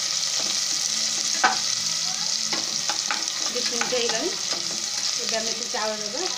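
Diced carrots, cashews and whole spices sizzling in hot ghee in an aluminium pressure cooker, with a spatula stirring and scraping against the pan. One sharper knock of the spatula comes about a second and a half in.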